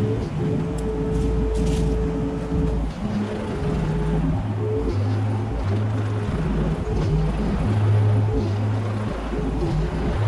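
Mini excavator's engine running steadily, its low hum shifting level and pitch every second or so as the machine works.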